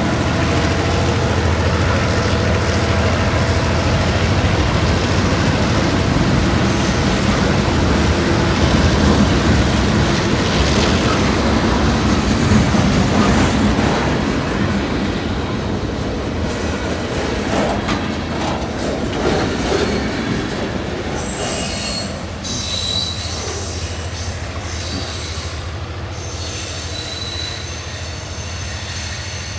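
EMD GP15-1 diesel locomotives growling past under heavy load as they climb a steep grade. Boxcars follow, rolling by with wheel clatter and short high wheel squeals. The sound fades as the train pulls away.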